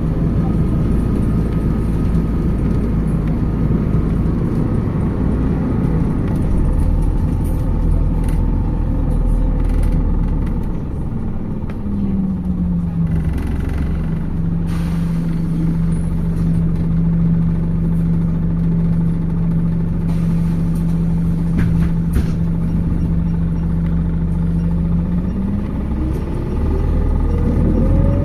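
MAZ 206 city bus heard from inside the cabin, its engine and road noise rumbling steadily. Through the middle a steady hum holds at one pitch, and near the end a rising whine comes in as the bus picks up speed.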